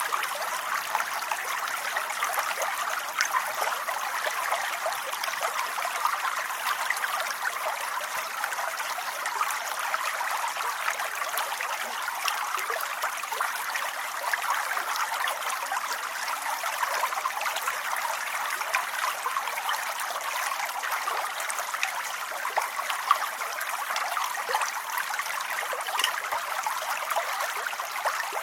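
Steady rain: a dense, even patter of many small drops with fine ticks throughout, unchanging in level.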